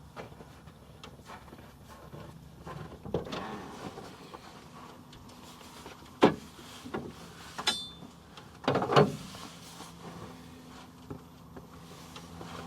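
Ford Kuga plug-in hybrid heard through microphones mounted on its HF45 e-CVT transmission: a low steady hum with a series of loud clunks and knocks, the loudest about six and nine seconds in, and a short metallic ring near eight seconds.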